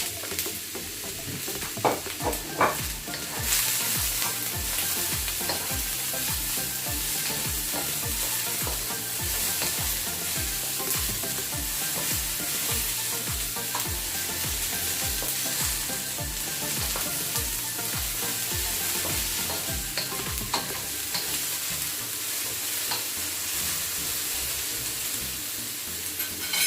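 Chopped onion, garlic, ginger and bell pepper sizzling in olive oil in a frying pan as they are stirred, with a few sharp knocks of the utensil against the pan about two seconds in.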